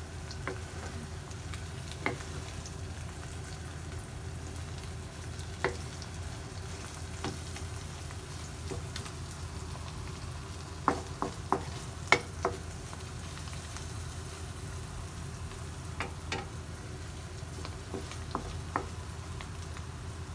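Tuna, egg and onion omelette frying in oil in a nonstick pan: a steady sizzle with a low hum underneath. A wooden spatula scrapes and taps against the pan now and then, with a cluster of sharp taps about eleven to twelve seconds in.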